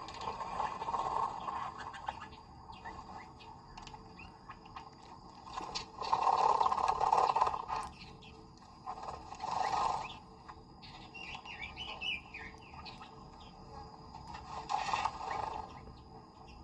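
Birds chirping, with a run of quick rising and falling chirps about eleven to thirteen seconds in. There are several louder, longer sounds around six to eight seconds in and again near ten and fifteen seconds.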